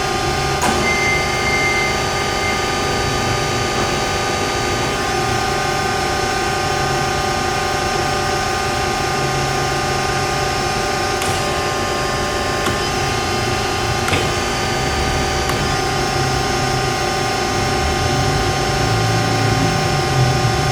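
HEM VT125HA-1 metal-cutting band saw running steadily, a constant mechanical hum made of several fixed tones over a noise bed, with a few light clicks scattered through it.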